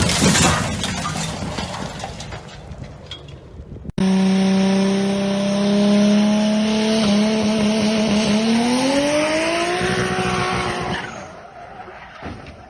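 A sudden loud burst of noise that fades away over a few seconds. Then a car engine runs at a steady pitch and climbs in pitch as it accelerates, over tyre and road noise, before dropping off near the end.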